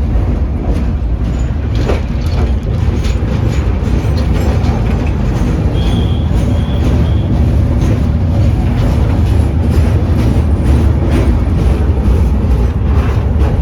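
Indian passenger train running on the rails: a steady, loud low rumble with scattered clicks from the wheels. About six seconds in come three short high tones.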